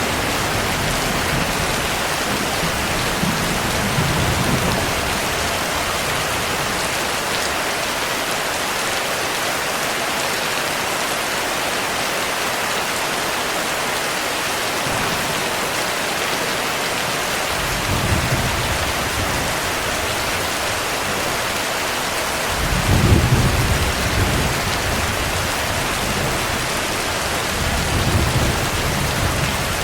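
Steady rain with several low rolls of distant thunder. The loudest roll comes about two-thirds of the way through, and a shorter one comes near the end.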